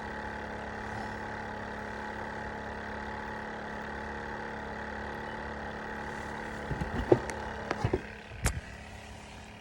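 A steady motor hum that drops away about eight seconds in, with a few sharp knocks and clatters in the last few seconds.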